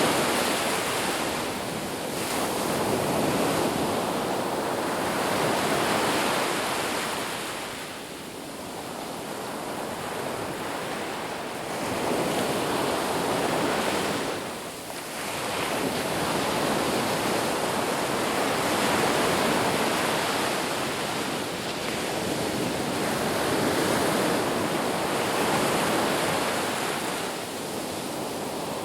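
Sea waves breaking and washing on a shore, a continuous rush of surf that swells and eases every few seconds, with a brief lull about halfway through.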